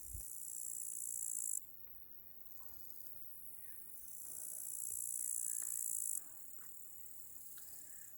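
Crickets chirping in a high-pitched chorus that swells and then cuts off abruptly, about a second and a half in and again about six seconds in.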